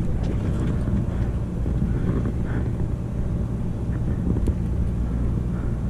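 Boat engine running steadily, a low rumble with a steady hum.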